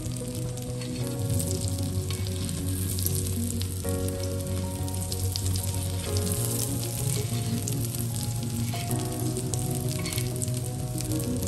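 Breaded sandwich sizzling and crackling steadily as it fries in bubbling fat on a flat iron griddle (tawa).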